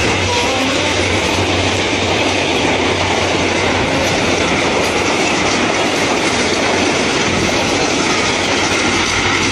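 Passenger coaches of an Egyptian express train passing close by, a steady loud rush of wheels running on the rails.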